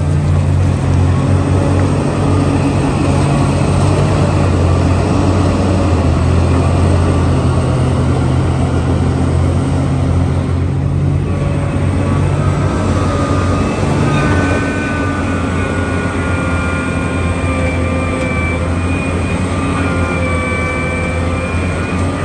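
Heavy construction machine's engine running steadily, a continuous low drone. About two-thirds of the way in, thin higher whining tones join it.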